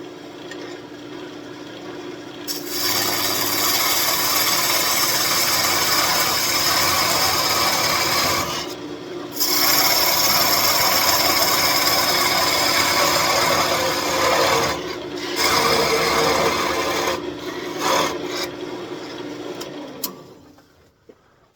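Parting tool cutting into a walnut desk leg spinning on a wood lathe: a loud, steady scraping hiss in several passes with short breaks, over the lathe's steady hum. The cutting and the hum stop near the end.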